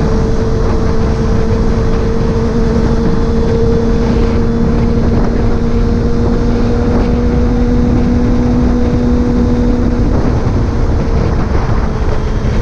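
Motorcycle cruising at a steady speed: a constant engine drone under heavy wind rush on the microphone. The engine note fades about ten seconds in while the wind noise carries on.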